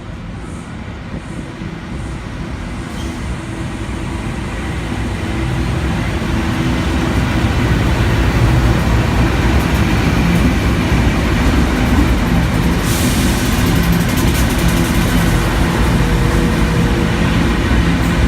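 A train approaching, its rumble growing louder over about eight seconds, then running past at a steady level.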